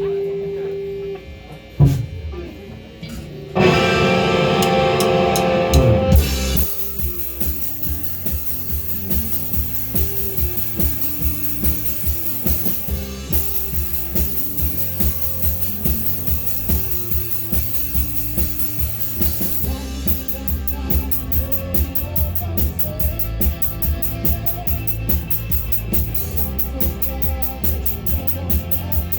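Live rock band playing the instrumental opening of a song on drum kit, electric guitar and bass: a held note and a single hit, then a loud ringing chord, and from about six seconds in the full band playing a steady beat. The cymbals get busier about twenty seconds in.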